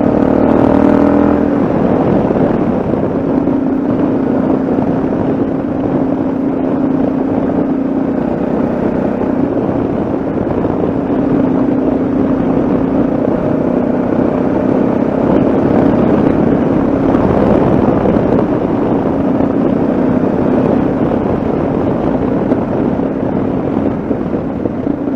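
Yamaha XT660Z Ténéré's single-cylinder engine running at road speed, its note holding fairly steady with small rises and dips, over a constant rush of wind and road noise.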